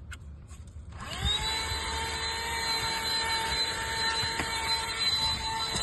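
Small Temola cordless vacuum switched on about a second in, after a few faint clicks. Its motor spins up with a rising whine and settles into a steady high whine.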